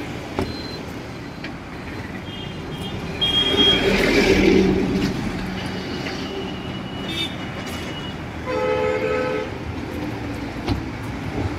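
Road traffic heard from a moving car, with vehicle horns honking: short high toots about two to three seconds in, and a horn blast of under a second near the last third, over a steady traffic rumble that swells briefly about four seconds in.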